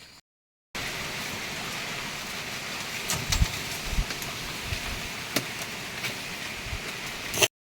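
Food sizzling over a cooking fire: a steady hiss with scattered sharp pops and crackles.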